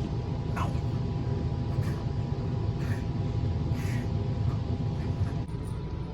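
Steady low rumble with a faint steady hum over it, and a few short scuffs scattered through.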